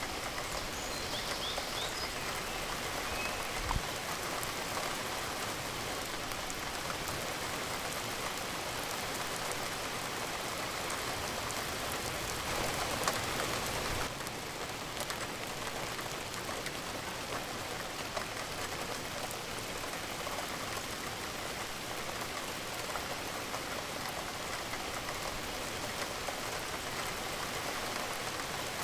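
Steady rain falling, an even hiss with a few sharper single drop hits. It swells slightly around twelve seconds in, then eases a little about fourteen seconds in.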